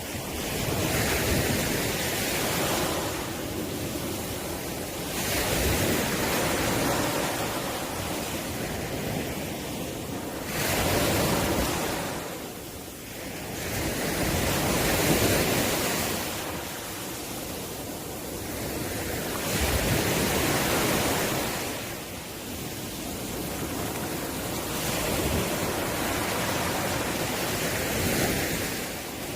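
Ocean waves breaking on a shore, the surf swelling and falling back every four or five seconds.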